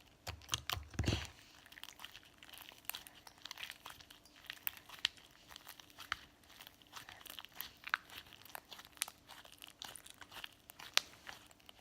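Slime being squished and kneaded by hand, giving many small irregular crackles and clicks, with a few dull bumps in the first second.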